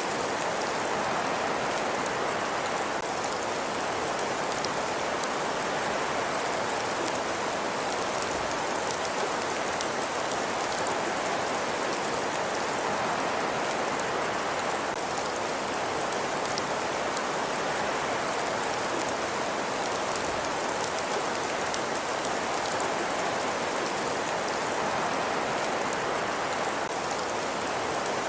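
Steady ambient hiss, like rain, with many fine light ticks throughout and no change in level.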